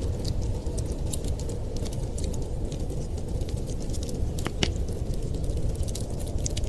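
Wood fire crackling in a fireplace, with many small irregular snaps and a louder pop about four and a half seconds in, over a steady low rumble.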